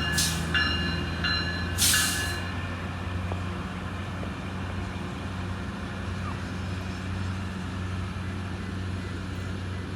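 A single diesel switcher locomotive running past with a steady low engine hum. In the first two seconds there are ringing bell tones that stop and start, and two short hisses.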